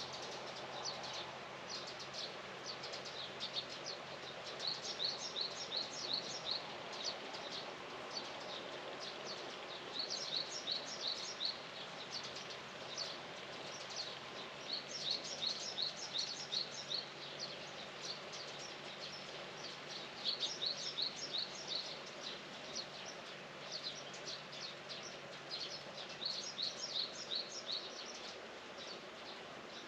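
Songbird singing in short runs of quick, high chirping notes, repeated every few seconds over steady outdoor background noise.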